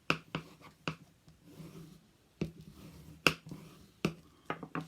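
Paper folded along score lines and burnished by hand: a series of sharp taps and clicks, about nine, with the loudest a little past three seconds in and a quick cluster near the end.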